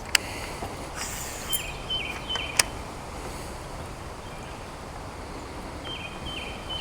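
Outdoor marsh ambience: a steady hiss of wind noise, with a few sharp clicks and a bird's short call of stepped high notes heard twice, once early and again near the end.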